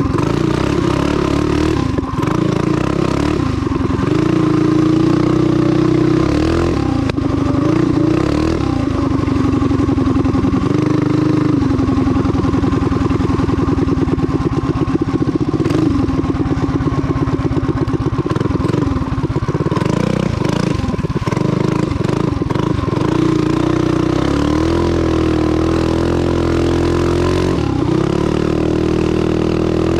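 Mini bike's 196cc clone single-cylinder four-stroke engine running while the throttle is opened and closed several times, its pitch rising and falling. The engine, fitted with a Wildcat WC22 round-slide carburetor, is being checked for hesitation going into and coming off the throttle.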